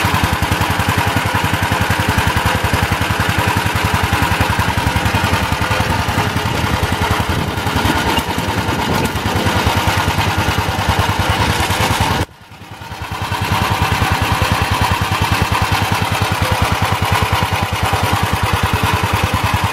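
1963 Gravely L walk-behind tractor engine running steadily after a cold pull start. The sound cuts out abruptly about twelve seconds in and comes back over a second or so.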